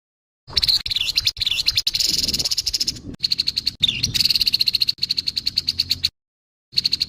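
Grey-headed babbler giving its harsh, rasping chatter: fast runs of rattling notes, about a dozen a second, in bursts broken off by abrupt dead silences where the recording is edited.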